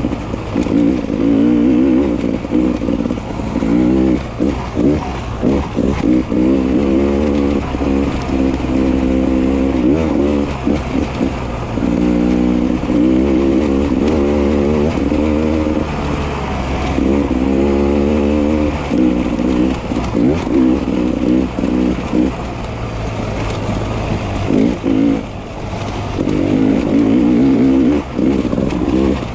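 Beta 300 RR two-stroke single-cylinder dirt bike engine being ridden hard, its revs climbing and dropping again and again as the throttle is worked.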